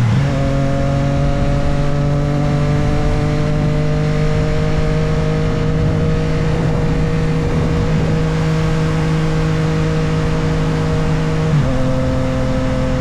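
Motorcycle engine running under way, with a sharp drop in pitch at the start as it shifts up a gear. The engine note then holds nearly steady, easing slightly, until another upshift drops the pitch again about eleven and a half seconds in, over a constant rush of wind.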